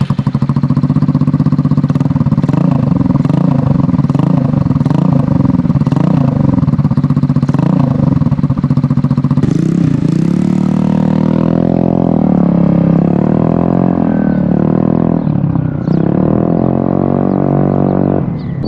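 GY6 scooter engine in a Honda Ruckus running through an aftermarket exhaust with its silencer removed. It idles for about ten seconds, then is revved up and down about four times before dropping back near the end.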